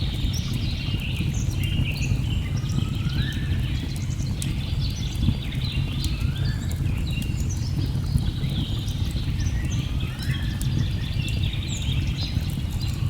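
Rainforest ambience: a steady low rush of falling water under a dense chorus of chirping and trilling birds, with one rising call repeated about every two and a half seconds. Faint crackles of a wood fire tick through it.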